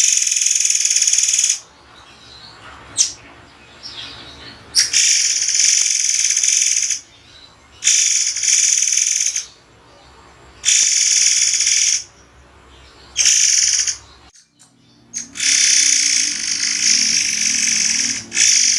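Murai air songbird calling in sharp, shrill, very high-pitched bursts of one to three seconds each, separated by pauses of a second or two.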